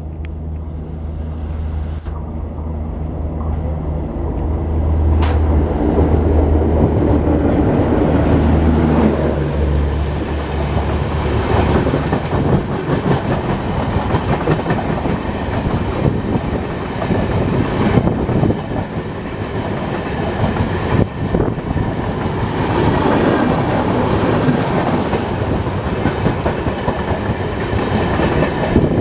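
Indian Railways diesel-hauled passenger train passing close by. The locomotive's engine drone grows louder as it comes up and goes by in the first ten seconds or so. Then comes the steady rumble and clickety-clack of the passenger coaches' wheels over the rail joints as the rake rolls past.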